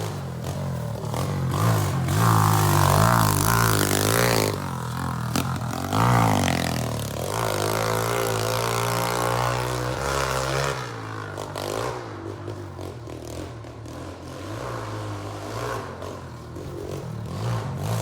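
Chinese 110cc four-stroke single-cylinder pit bike (SSR110) being ridden, its engine revving up and dropping back again and again through the gears. Loudest in the first half, then fainter after about eleven seconds.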